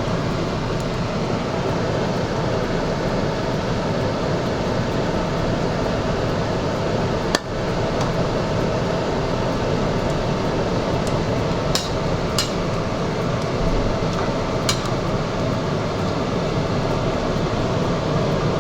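Steady rushing noise of a covered pot of stew cooking on the stove, broken by a few short, sharp clinks about halfway through.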